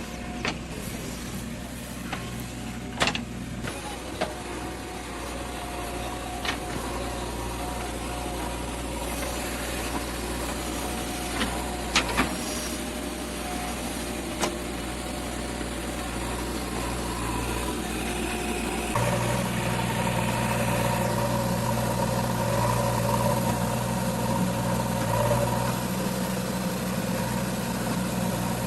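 JCB 3DX backhoe loader's diesel engine running steadily, with a handful of sharp clanks in the first half. About two-thirds through, the engine note rises and gets louder as it takes on more throttle.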